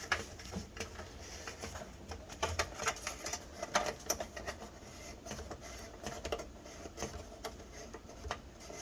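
Irregular light clicks and scrapes of metal shower fittings as a connection on a stainless steel shower panel is tightened.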